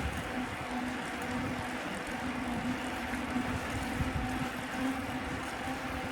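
Wind buffeting the microphone while cycling along a city street, over steady traffic noise and a constant low hum.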